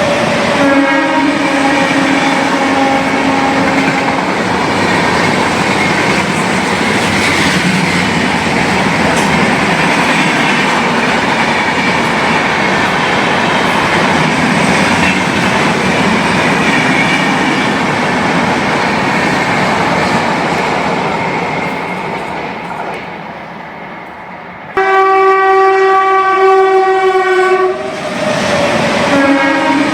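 Indian Railways train horn sounding for the first few seconds, then a fast train passing with a steady wheel-and-coach rumble and clickety-clack that fades away. About 25 seconds in, a loud horn starts abruptly, and another blast follows near the end.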